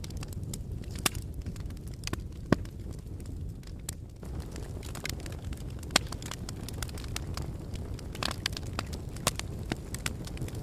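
Wood fire in a fireplace crackling: irregular sharp pops and snaps over a steady low rush of the flames, with louder pops about one, two and a half, and six seconds in.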